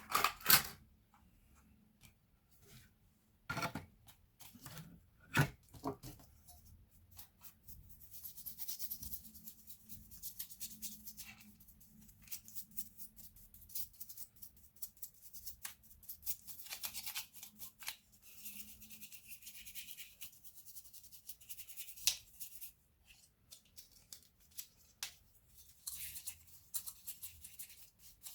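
Hand work on a laptop's internals: a few sharp clicks and knocks in the first six seconds, the loudest about half a second in, then stretches of high, scratchy rubbing strokes on and off for the rest, with one more sharp click about two thirds of the way through.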